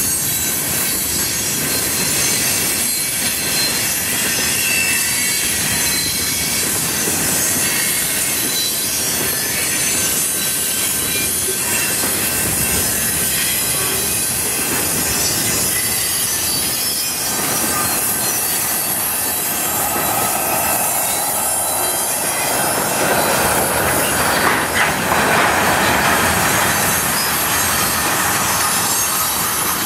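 Freight cars of a mixed freight train rolling past close by: a steady rush of steel wheels on rail with clatter over the rail joints. The sound grows louder and brighter from about two-thirds of the way through.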